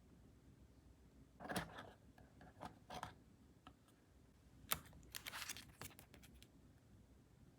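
Faint scratching and clicking of packaging being handled, in short scattered bursts: one about a second and a half in, a couple around three seconds, and a denser run from about five to six and a half seconds.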